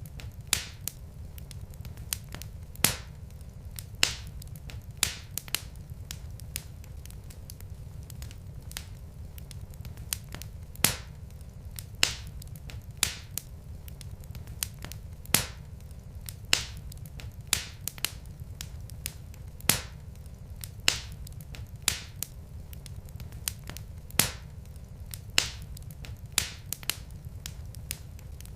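Wood fire in a fireplace crackling: sharp pops and snaps, roughly one a second, over a steady low rumble.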